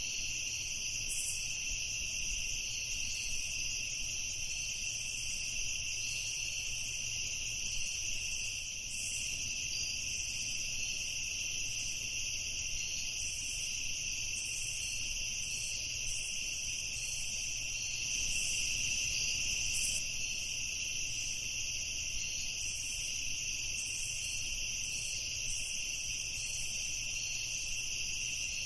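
Crickets chirping steadily in a continuous chorus, with short scattered higher chirps over it.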